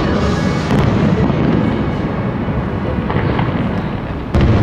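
Aerial fireworks shells bursting overhead in a continuous rumble of booms, with one sharp, loud bang near the end.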